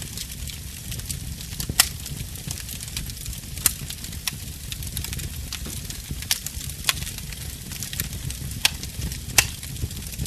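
Wood fire crackling in a fireplace: a low, steady rumble of flames with sharp pops and snaps at irregular moments, the loudest about two seconds in and again near the end.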